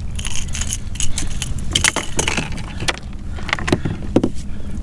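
Metallic clicking and jingling as a topwater lure's treble hooks are worked free of a small redfish's mouth, a string of short irregular clicks over a steady low rumble.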